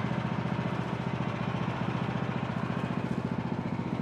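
Small gasoline engine of a Woodland Mills HM126 portable bandsaw mill running steadily at idle, with an even pulsing beat and no cutting load.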